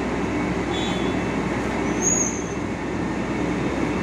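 Large fire truck with an aerial ladder running steadily, a low mechanical hum and noise, with a brief high squeal about two seconds in.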